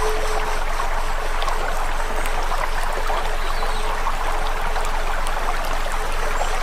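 Wood campfire burning, a steady hiss with many small sharp crackles and pops scattered through it, over a steady hum.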